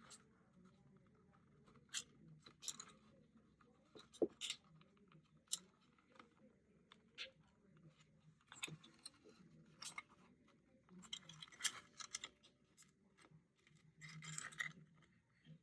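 Faint, scattered small clicks, ticks and brief scratches from handling thin copper wire while bending it and fitting it to an HO scale model locomotive shell, with one sharper tick about four seconds in and a longer scratchy rustle near the end.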